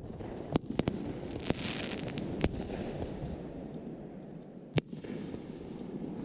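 Fireworks going off: about five sharp bangs, the loudest near the end, over a steady hiss of noise.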